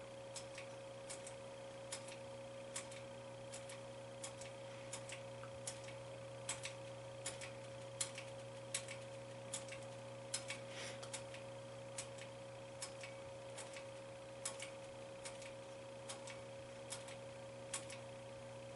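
Pinball machine's coin slot switch being pressed over and over, about thirty short clicks roughly one every two-thirds of a second, stepping through the nacelle light levels in the light test. A steady electrical hum from the machine runs underneath.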